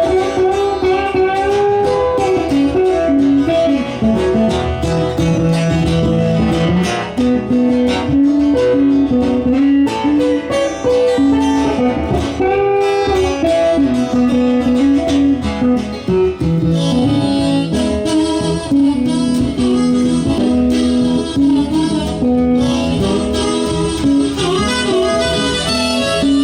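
Live blues band music led by guitar: an instrumental passage of picked and strummed guitar notes, with no singing.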